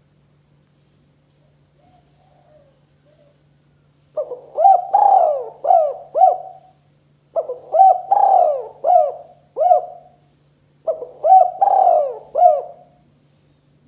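Spotted dove cooing: three phrases of several rounded coos each, starting about four seconds in, with short pauses between phrases.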